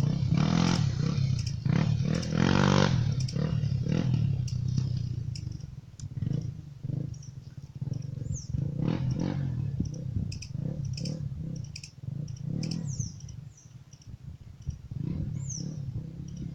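Honda XR 250 Tornado's single-cylinder four-stroke engine working under load up a hill, revving hard for the first few seconds, then the throttle opening and closing unevenly.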